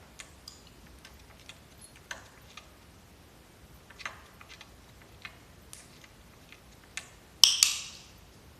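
Light, scattered clicks and taps every half second or so, then a short, louder harsh burst a little past three-quarters of the way through that dies away quickly.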